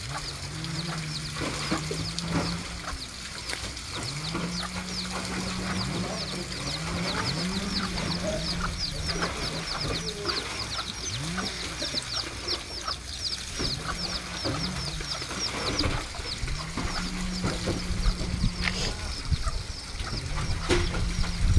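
Farm birds calling: a fast, steady run of high chirps over lower, drawn-out calls that rise and fall.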